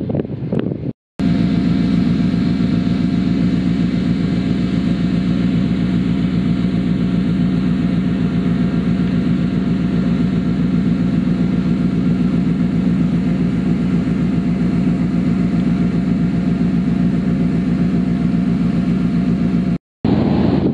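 Ferry engine running at a steady pace, a loud even drone. It cuts in abruptly about a second in and cuts off just before the end.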